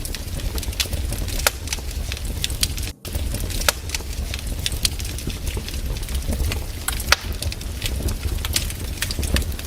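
Wood campfire crackling, with frequent sharp snaps and pops over a steady low rumble. The sound drops out for an instant about three seconds in.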